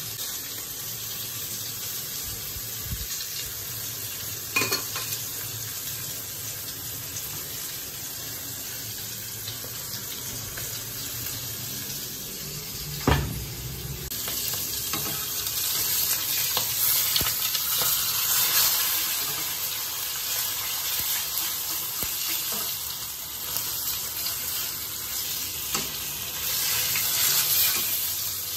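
Water boiling in a pot of okra, a steady hiss, with two sharp knocks, the louder one about halfway. About halfway through, a whole trevally (talakitok) pan-frying in oil takes over: a louder sizzle that swells and runs on.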